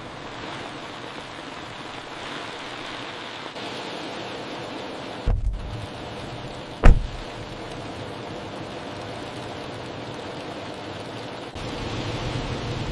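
Heavy rain falling steadily, with two sudden thunder claps about five and seven seconds in, the second a sharp crack and the loudest.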